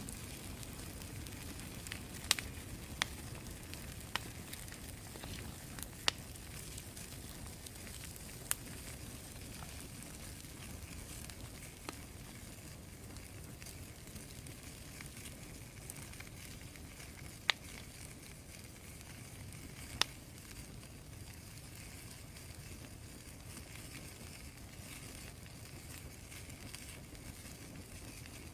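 Wood fire of freshly cut green wood soaked in used motor oil, burning with a steady low rush and scattered sharp pops, most of them in the first third.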